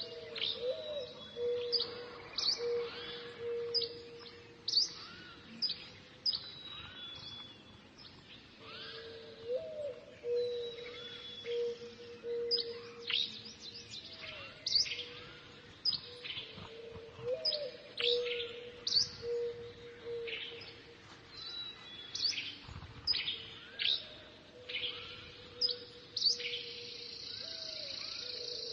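Several wild birds calling and singing together: many short, sharp chirps that sweep downward, over a lower call repeated in runs of quick notes that comes and goes.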